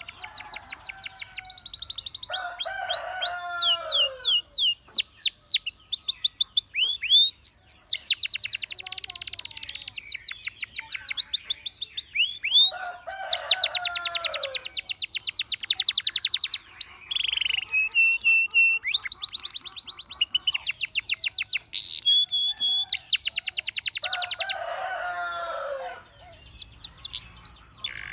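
Canary singing: long runs of fast trills and rolls, rapid repeated notes and quick falling whistles, with a lower, scratchier warble breaking in three times.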